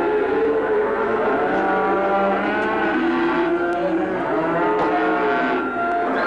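A crowd of cattle bawling at once, long overlapping moos of different pitches with no pause between them.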